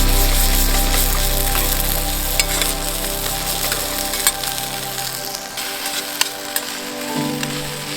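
Food sizzling and crackling in a hot pan, a steady hiss with scattered sharp pops. Soft sustained background music plays underneath, its low notes fading away midway.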